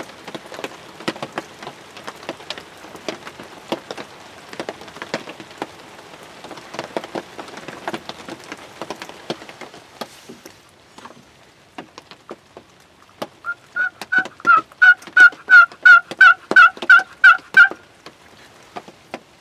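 Raindrops tap irregularly on a ground blind for the first half. Then, about two-thirds of the way in, a turkey call gives a run of about fourteen hen yelps, about three a second, louder than the rain.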